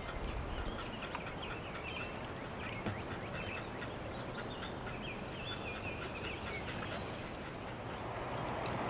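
Birds chirping in short, high calls, scattered throughout, over a steady background hiss.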